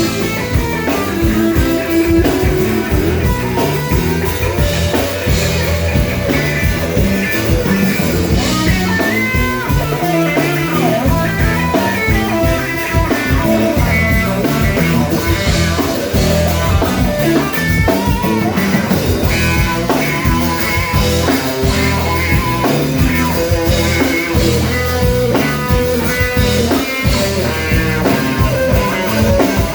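Live rock band playing a blues-rock instrumental passage, guitar to the fore over bass and drums.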